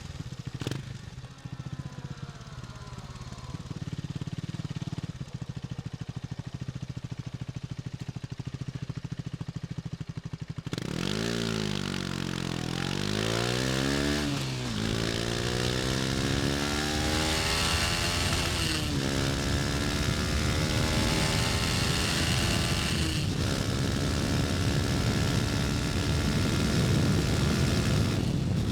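KTM Duke 250's single-cylinder four-stroke engine running steadily at low revs, then about ten seconds in it gets louder and pulls away, revving up through the gears with the pitch climbing and dropping back at each upshift, roughly every four to five seconds. A rushing wind noise builds with speed.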